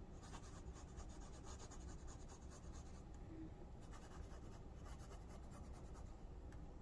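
Faint scratching of a fountain pen's medium steel nib writing on paper: a steady run of light pen strokes.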